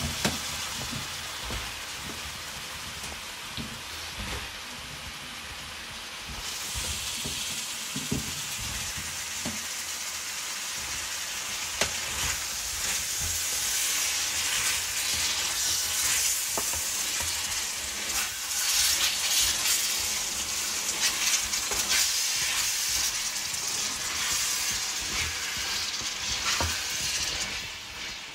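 Cubed potatoes frying in a pan of tomato-onion masala, with a steady sizzle, stirred with a wooden spatula that gives occasional short scrapes and knocks against the pan. The sizzle grows louder about six seconds in.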